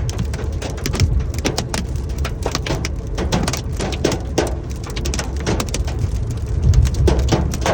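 Hailstones pelting down, a dense, irregular patter of sharp hits over a steady low rumble.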